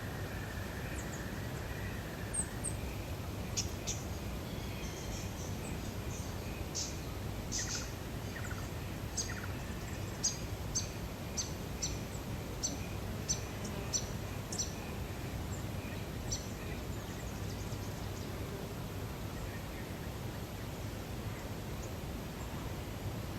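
Steady outdoor lake ambience, a low even background noise, with a bird calling in short high chirps. In the middle stretch there is a run of about a dozen quick evenly spaced notes, roughly two a second.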